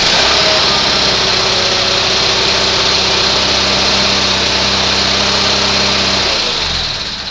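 1978 Roper 20T garden tractor engine running steadily just after a cold start, then shut off about six seconds in and winding down. It caught easily after four days sitting.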